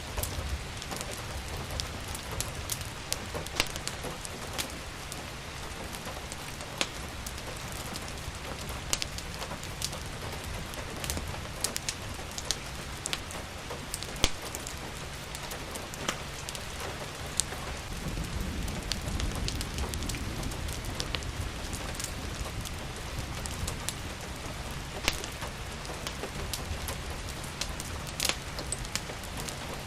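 Steady rain falling, with a fireplace crackling and popping in sharp, irregular snaps over it. A low rumble swells for a few seconds about eighteen seconds in.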